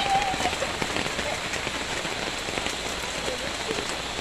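Steady rain falling, a dense patter of many separate drop hits, with a brief child's voice just at the start.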